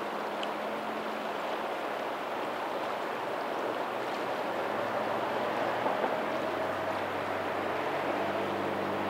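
Steady rush of water from the lagoon's tidal outflow and faint waves on a pebbly shore. From about six seconds in, a low engine hum joins and grows slowly louder.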